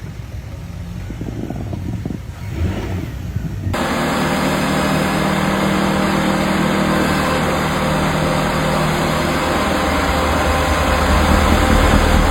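A motor vehicle engine running. About four seconds in, an abrupt cut switches to a louder, closer engine sound, a steady low hum under a wash of noise.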